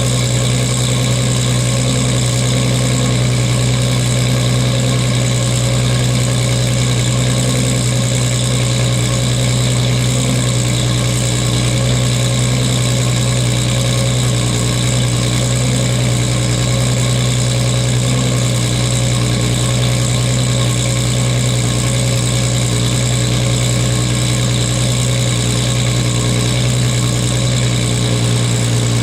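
1998 Toyota Supra Turbo's 2JZ-GTE inline-six idling steadily through an HKS titanium racing exhaust with its silencer fitted, still warming up after a cold start.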